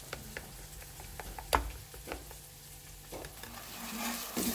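Steel spoon stirring masala into frying onions in a pan: scattered clinks and scrapes of metal on the pan over a light sizzle, with the sharpest knock about a second and a half in.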